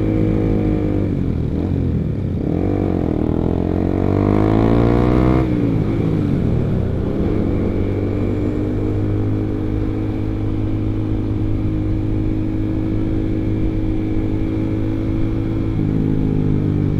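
Honda CBR150R's single-cylinder engine running through an R9 aftermarket exhaust while riding, a deep, bass-heavy note. The engine rises in pitch through the first few seconds and drops sharply about five seconds in, then holds a steady cruise, shifting again near the end.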